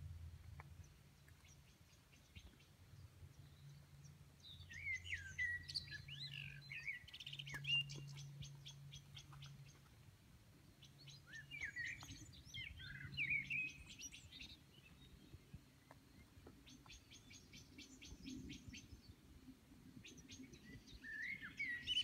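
A songbird singing: short warbled phrases of gliding notes alternating with rapid trills of quick repeated notes, coming in bursts every few seconds.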